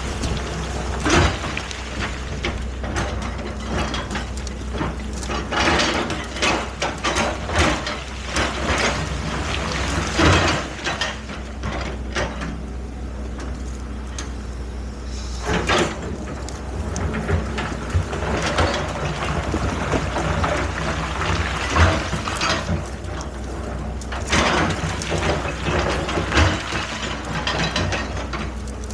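Excavator working: its engine drones steadily under repeated metallic clanks, knocks and scraping from the machine's moving parts.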